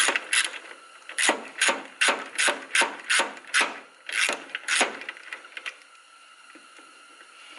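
Ratchet wrench clicking through a dozen or so quick back-strokes while backing out a brake hose bracket bolt, then it goes quiet after about five seconds.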